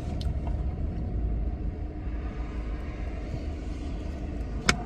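Steady low rumble of a car engine idling, with a sharp click near the end.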